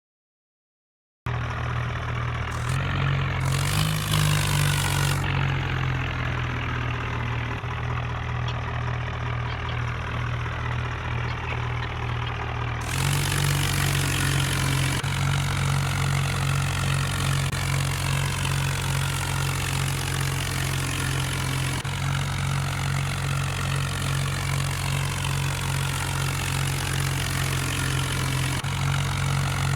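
Tractor's diesel engine running steadily at a constant speed, starting about a second in.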